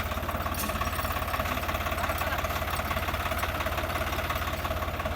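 Swaraj 855 tractor's diesel engine running steadily with an even, rapid low throb.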